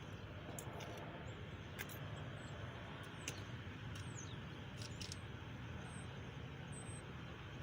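A few light metallic clicks as a camshaft is worked out through the cam bearings of a small block Chevy 350 block, over a steady low background hum. A few faint bird chirps come in the second half.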